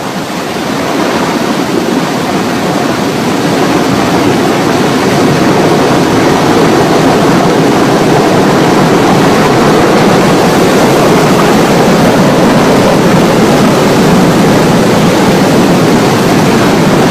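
Loud, steady rushing roar of a flood of water and rock, building over the first few seconds.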